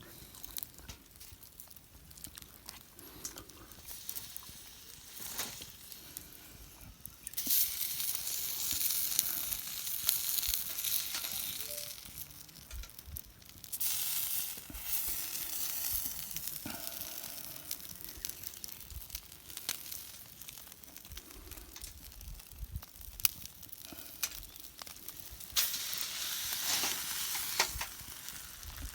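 Food sizzling over a wood fire, swelling up three times into louder spells of hissing, with scattered clicks and crackles between.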